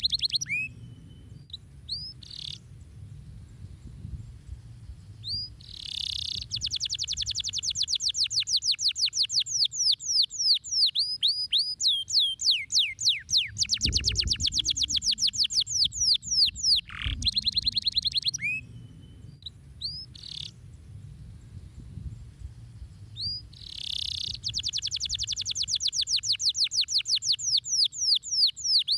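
Domestic canary singing: long rolling trills of rapid repeated high notes in several phrases, with scattered single chirps between them.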